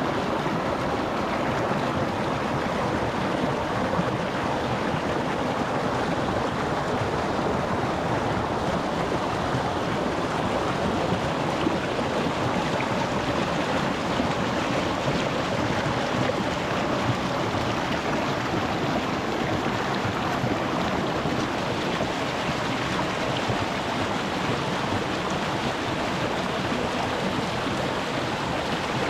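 Shallow rocky mountain stream babbling and splashing over stones, a steady rushing of water.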